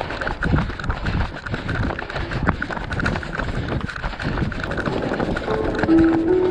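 Running footsteps of a pack of road-race runners, a quick, even patter of footfalls heard from among them. A few held musical notes come in near the end.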